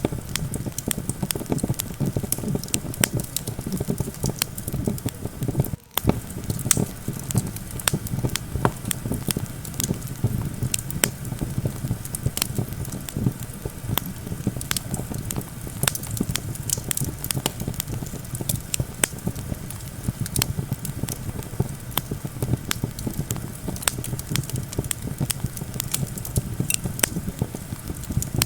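Campfire crackling, with frequent sharp pops and snaps over a steady low rumble of wind. The sound drops out for a moment about six seconds in.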